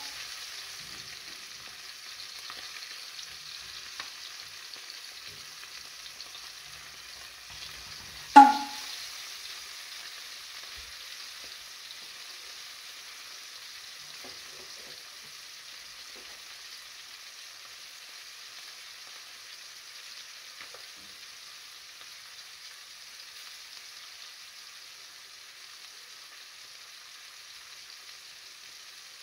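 Sole fillets frying in oil in a frying pan, a steady sizzle that slowly dies down. One loud, sharp clack comes about eight seconds in.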